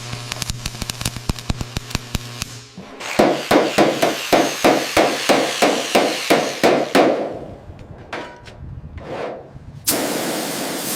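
Hammer blows on metal, about three a second, after a few seconds of fast, light tapping over a steady hum. A steady hiss starts near the end.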